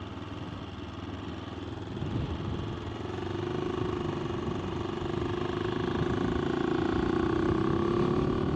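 AJP PR7's single-cylinder engine running on the move. From about three seconds in its note settles into a steady tone that rises slowly and grows louder, over a low rumble of wind on the microphone.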